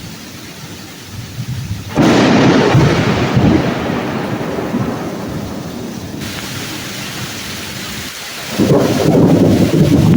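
Thunder in a rainstorm: a sudden loud thunderclap about two seconds in, rumbling away over several seconds, and a second loud peal near the end, over steady falling rain.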